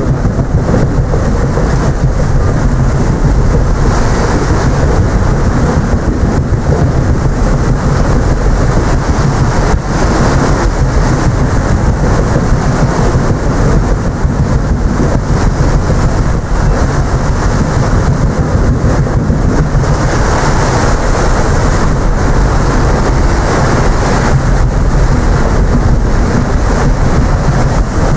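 Loud steady wind rumble on the microphone aboard the paddle steamer PS Waverley under way, with the ship's running noise underneath.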